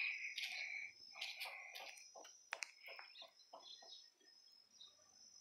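Birds calling: two drawn-out high calls in the first two seconds, then a run of short, quick sounds that fade out.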